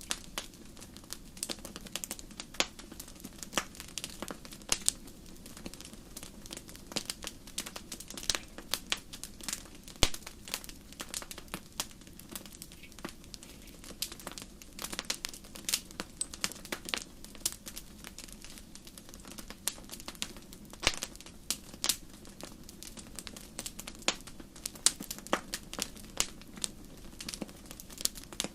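Campfire crackling: irregular sharp pops and snaps of burning wood, several a second, over a steady low rushing of the flames.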